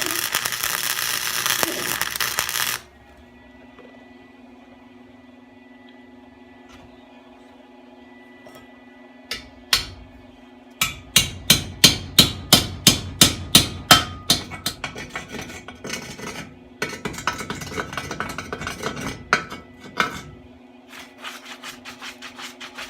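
Welding arc crackling on exhaust pipe and cutting off after about three seconds, leaving a faint steady hum. Then a long run of sharp metal strikes, about four a second, loudest a few seconds in, followed near the end by quicker, lighter scraping strokes on the metal.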